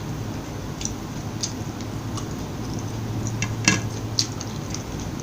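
Close-miked chewing of a McChicken burger with shredded cabbage: scattered short crunches and mouth clicks, the loudest about three and a half seconds in, over a steady low hum.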